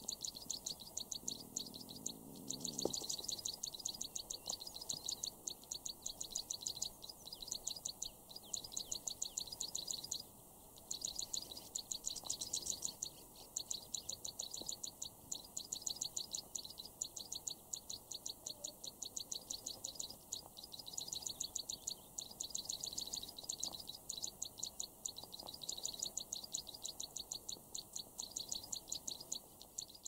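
Small birds chirping: rapid, high, repeated notes, several a second, in runs of a few seconds with short breaks.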